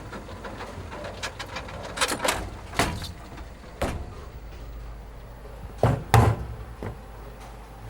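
A series of short knocks and clatters over a steady low hum, the two loudest about six seconds in.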